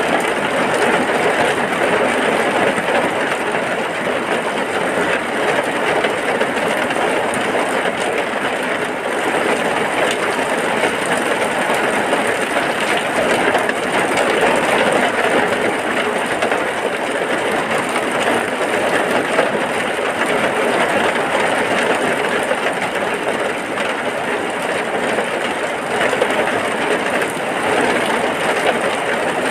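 Heavy rain falling steadily, a dense even hiss without pauses or breaks.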